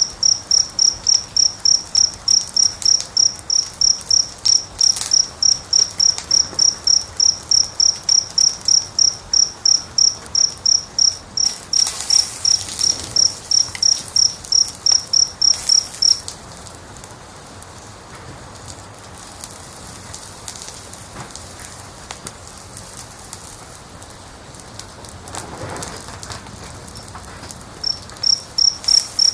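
A cricket chirping steadily, about three high chirps a second, falling silent about halfway through and starting again near the end, over the crackling and popping of a wood fire.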